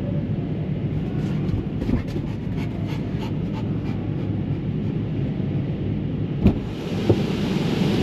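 Steady low rumble of a truck at a truck wash, with a run of faint quick ticks in the first half and two sharp knocks about half a second apart near the end.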